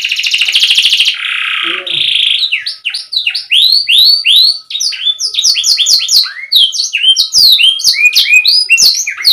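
Domestic canary singing: a fast buzzing trill, then a lower rolling phrase, then a run of quick, repeated down-slurred chirps that come faster toward the end.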